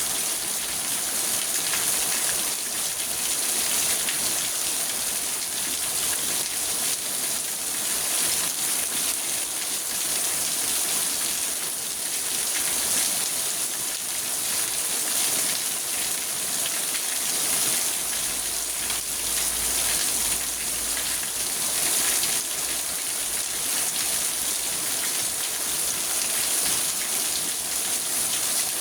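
Steady rain drumming on a car's roof and windows, heard from inside the car as a dense patter of drops.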